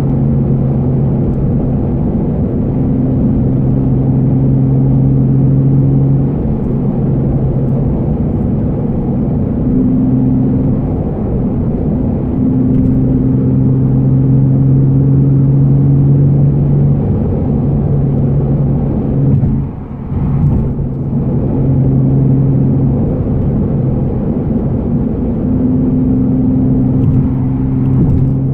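Nissan Fairlady Z (Z34) 3.7-litre V6 with an aftermarket Be Free muffler, heard from inside the cabin while cruising gently: a steady low engine and exhaust drone that holds its pitch for long stretches and shifts slightly now and then. There is a brief dip in level about twenty seconds in.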